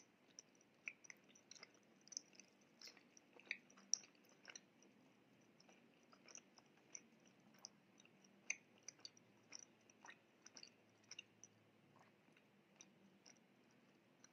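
Quiet, close-miked chewing of chicken steak, with many small, irregular mouth clicks.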